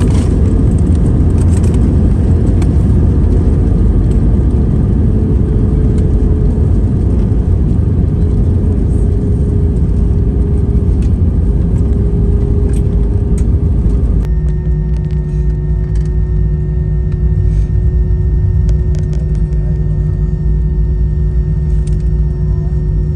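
Cabin noise aboard an Airbus A320: a loud, steady rumble of engines and airflow with a humming tone. About fourteen seconds in, the tone steps lower and a deeper steady hum joins it.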